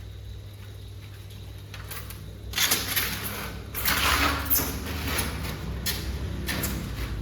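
Intermittent scraping and clattering of objects being handled, in several short bouts, over a low steady hum.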